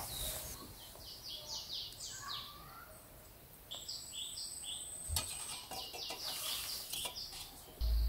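Birds chirping outdoors in runs of short, quick high notes, in several groups, with a thin high whistle lasting about a second and a half near the middle.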